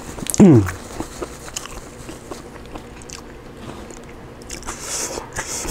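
A person eating close to the microphone: a short falling voiced hum about half a second in, then biting and chewing heard as a string of small clicks and crackles.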